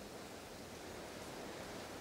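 Steady rain and wind of a thunderstorm heard through a window: an even, continuous hiss.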